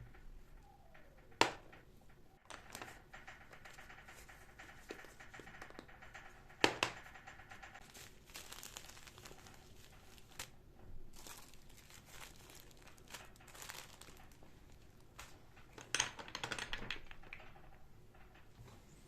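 Household handling sounds: on-and-off crinkling and rustling, with two sharp clacks, one near the start and one about a third of the way in, and a louder burst of rustling near the end.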